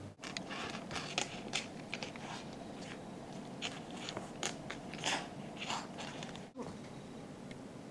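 Kitten biting and gnawing at a pompom toy: an irregular run of short, crunchy crackles and rustles.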